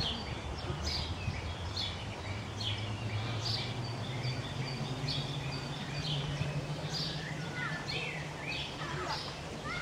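Small birds chirping: short falling chirps that repeat about every half second, with other bird calls joining near the end, over a low steady hum of background noise.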